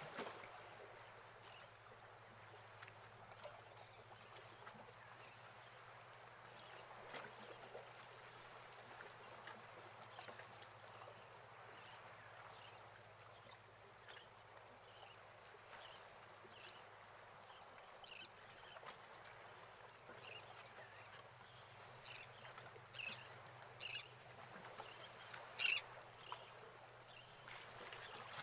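Faint bird calls: a run of short, high chirping notes, with a few louder sharp calls near the end, over a low steady hum.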